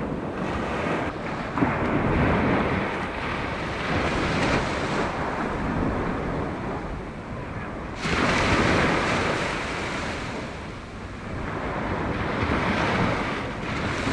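Sea surf washing onto the beach, with wind buffeting the microphone. The noise swells and ebbs, and there is a sudden surge a little past halfway.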